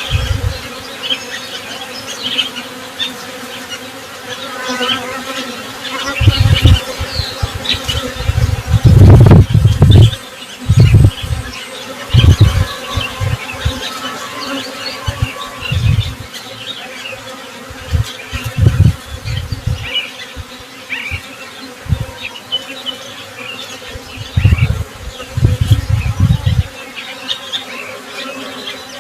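Honey bees buzzing, the buzz swelling loudly again and again as bees fly close past the microphone, over a steady background hum, with birds chirping throughout.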